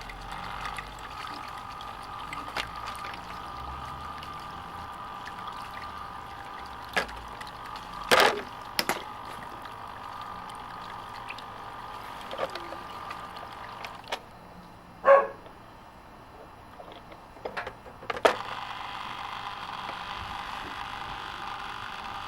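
Repaired parts-washer pump running and pouring a steady stream of water from its outlet, a sign that the pump is working again. The water sound weakens for a few seconds about two thirds of the way through, then comes back. A few short, sharp sounds stand out over it.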